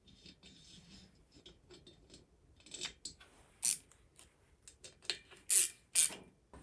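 Small metal parts and hand tools being handled on a workbench: irregular light clicks, rubs and short scrapes, with a few sharper, louder scrapes from about three and a half seconds on.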